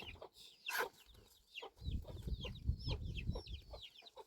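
Chickens clucking: a quick run of short, falling calls repeating throughout, over a low rumble that comes in about two seconds in.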